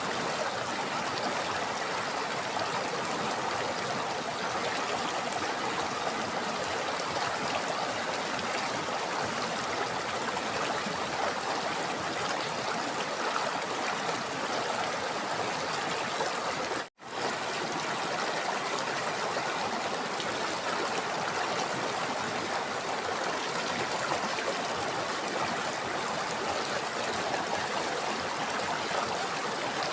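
River water running steadily over stones, an even rushing and babbling, with a momentary silent gap about seventeen seconds in.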